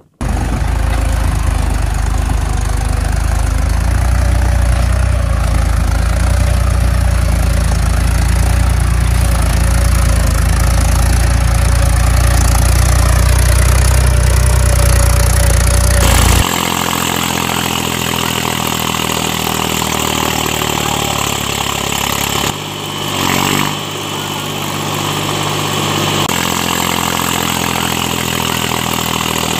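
Tractor engine running steadily, deep and loud. About halfway through it cuts abruptly to a different, higher engine note, which dips briefly twice.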